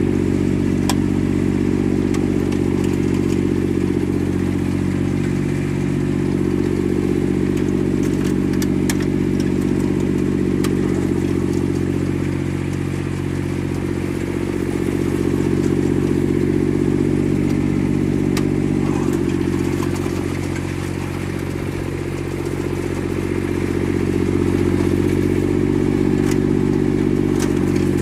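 Yanase IZ-Y11-17HD snowblower's three-cylinder diesel engine running steadily, easing slightly twice and picking back up, with a few light clicks.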